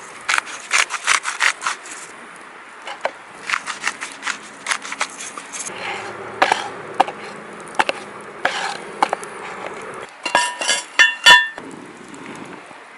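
Irregular knocks, snaps and scrapes of wood and camp gear being handled, with a quick run of ringing metal clinks about ten seconds in.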